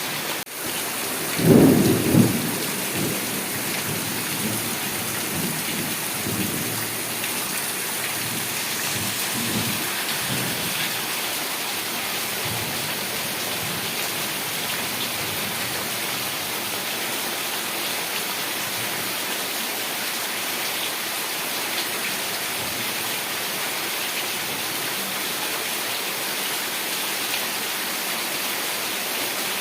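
Heavy rain falling steadily. A sharp crack of thunder comes just after the start, followed by a loud low rumble that trails off over the next several seconds.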